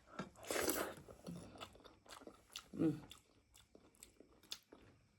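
Close-miked chewing and biting of meat pieces, with many small wet mouth clicks. A short noisy burst comes near the start, and a brief low hum about three seconds in.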